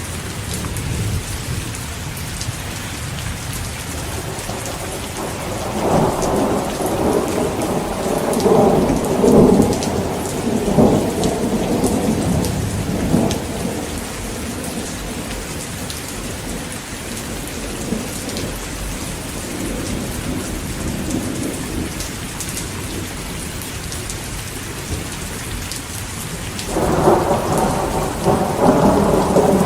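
Heavy rain falling steadily, with a rolling peal of thunder from about six seconds in to about thirteen, and another roll of thunder starting near the end.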